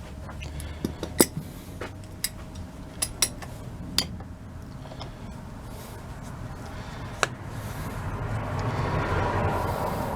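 Tools and metal starter parts clinking and tapping as they are handled, a dozen or so sharp clicks spread through the first half. A rushing hiss swells up near the end and eases off.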